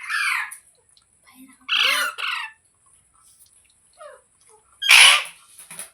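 A pet parrot giving three loud, harsh squawks about two seconds apart, each a quick falling screech; the last, near the end, is the loudest.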